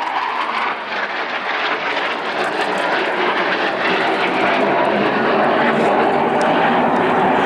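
Eurofighter Typhoon FGR4 jet fighter making a pass, its twin EJ200 turbofans giving a loud, steady roar that slowly grows louder.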